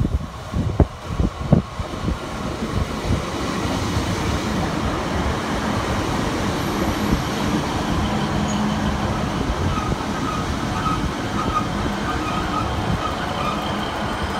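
Northern diesel multiple unit drawing into the platform and passing close by: a steady rumble of engine and wheels on rail that builds over the first few seconds, then holds. Wind buffets the microphone at the start.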